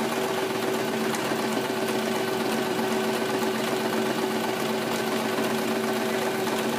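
Electric sewing machine running steadily at speed, its needle rapidly stitching through fabric with a motor hum under a fast, even clatter.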